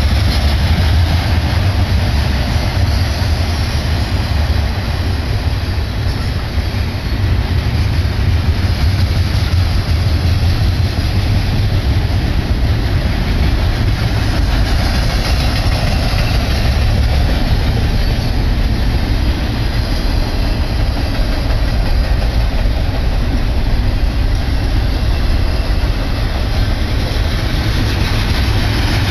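Double-stack container train's well cars rolling past, a loud, steady rumble of steel wheels on rail.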